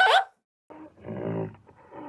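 A brief, high-pitched animal call cut off at the start, then, from under a second in, a lion's low, throaty growling calls rising in loudness.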